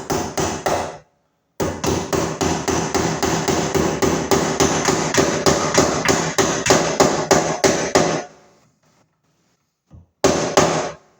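Hammer driving cable staples into a wood stud to hold electrical cable, in quick, even blows about three a second: a short run, a pause, a long run, then a brief final burst near the end.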